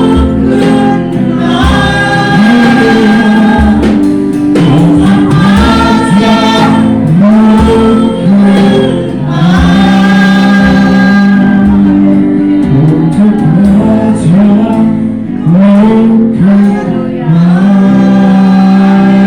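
Worship band and congregation singing a gospel chorus together, a group of voices holding long notes over band accompaniment with a steady low beat.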